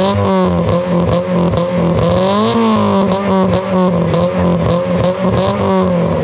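Freshly installed car engine revved through its new exhaust in short blips: the pitch climbs to a peak about two and a half seconds in, falls back, then drops again near the end.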